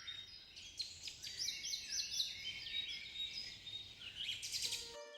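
Several birds chirping and calling together in a dense chorus of short, repeated high notes, over a faint outdoor rumble. The birdsong cuts off suddenly near the end.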